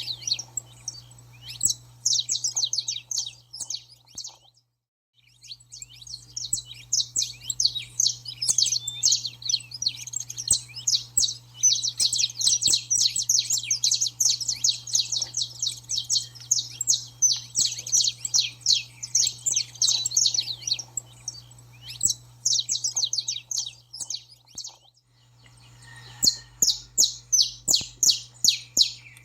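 Saffron finch singing its agitated 'baderna' song: long, fast strings of sharp, high chirps. There are short pauses about five seconds in and again shortly before the end.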